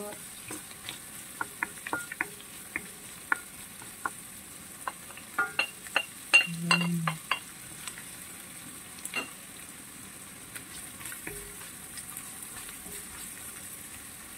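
Minced pork, garlic and shallots sizzling in oil in a wok, with the wooden spatula clicking and scraping against the pan as it is stirred. The knocks come thick and fast over the first nine seconds or so, loudest around the middle, then thin out to a steady sizzle.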